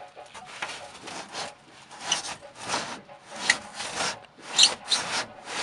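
Hand saw cutting through wood in rhythmic back-and-forth rasping strokes, about two a second.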